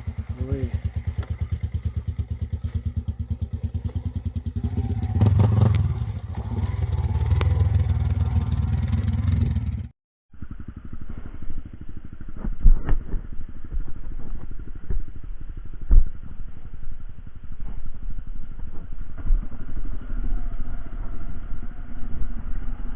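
A vehicle engine running with an even firing beat. After a cut about ten seconds in, there is a duller rumble with scattered knocks and clatter.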